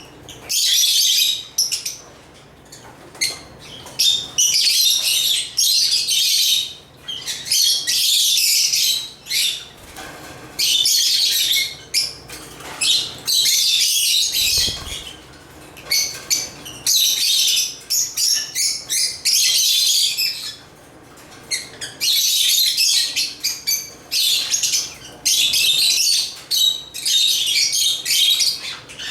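African lovebirds (Agapornis) chattering: rapid, high-pitched chirps in bouts of one to two seconds with short breaks between.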